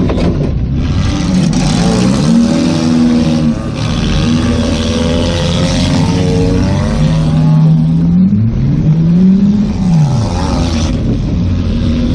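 Demolition derby car's engine heard from inside its stripped cabin, revving up and falling back again and again as it is driven around the course. A loud rushing noise comes and goes over it in stretches of a few seconds.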